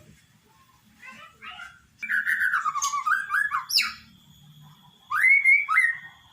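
Murai batu (white-rumped shama) singing: a few soft notes, then a loud phrase of falling whistles ending in a sharp upward sweep, and near the end a pair of loud rising whistles.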